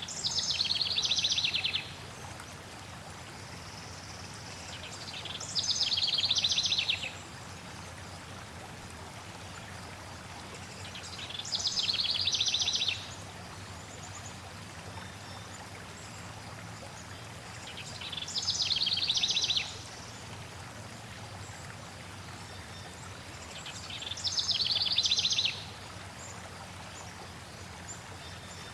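A songbird singing a short trilled song of rapid repeated notes, five times about every six seconds, over the steady rush of flowing water.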